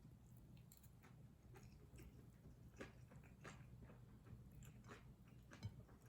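Faint, close-miked chewing of kimchi fried rice: soft, irregular mouth clicks and smacks over a low hum.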